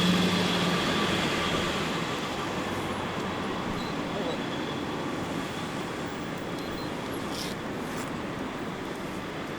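Road traffic noise: a vehicle's low engine hum that stops about a second in, and a steady noise that slowly fades over the next few seconds.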